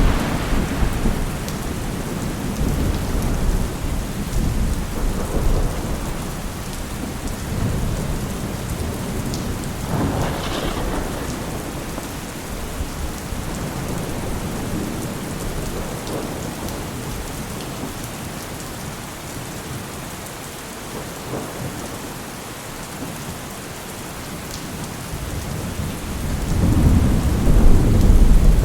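Steady rain falling, with rolling thunder: a rumble dying away at the start, a sharper clap about ten seconds in, and a deep rumble swelling up near the end.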